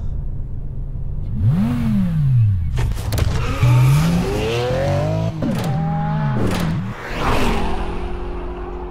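Sports car engine revving hard as it accelerates away, its pitch climbing and dropping at each of several gear changes, with sharp shift clicks. The sound then eases and fades near the end.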